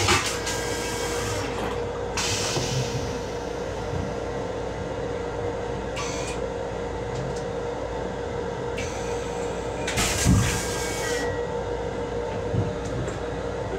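Interior noise of an M7 electric railcar, heard in its small restroom: a steady rumble under a constant hum, with short bursts of hiss from time to time and a louder thump about ten seconds in.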